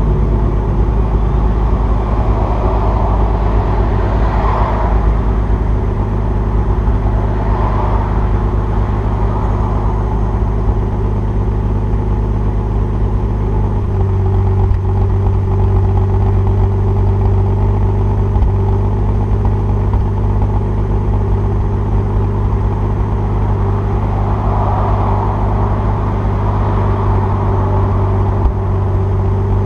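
2002 Nissan Maxima's 3.5-litre VQ35DE V6 idling steadily after a cold start, exhaust through equal-length headers, stock catalytic converter, resonator-deleted straight pipe and muffler. The idle note shifts slightly about halfway through.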